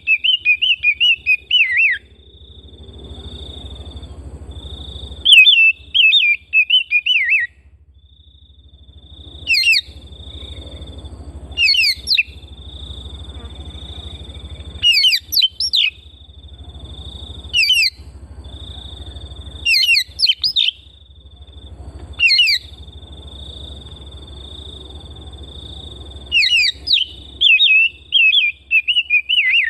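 Oriental magpie-robin (kacer) singing: phrases of quick warbled and sharply down-slurred whistled notes, coming every second or two, some longer chattering runs at the start, around 6 seconds in and near the end. A steady high tone and a low hum run underneath.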